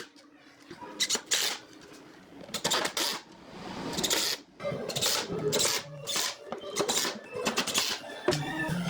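Irregular knocks and clatter of wood being handled and worked by hand, with a longer scraping noise a little before the middle.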